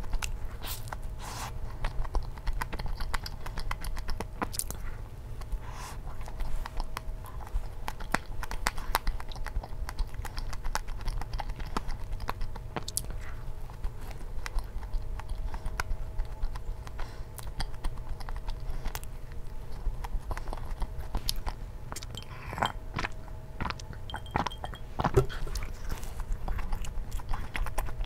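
Close-up mukbang eating sounds: a person biting and chewing soft glazed yeast donuts, with many small irregular wet mouth clicks, over a faint steady hum.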